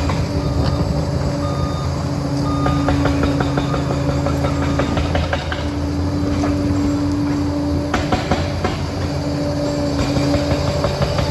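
Liebherr PR 746 crawler dozer's diesel engine running steadily at work, with frequent short clanks and knocks over the engine hum.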